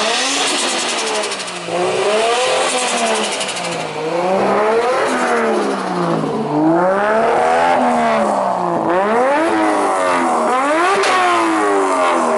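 Race car engine revving up and down over and over, its pitch climbing and falling back about every one and a half to two seconds.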